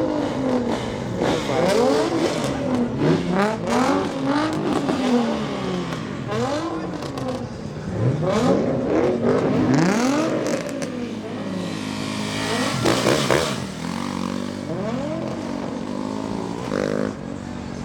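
Car engines revving hard again and again, the pitch sweeping up and dropping back many times in quick succession, with several engines overlapping.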